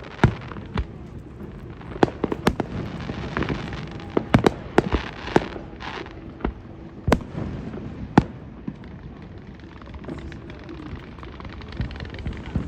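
Fireworks display: sharp, irregular bangs of shells bursting, close together in the first half, then only a few single loud reports and fainter pops toward the end.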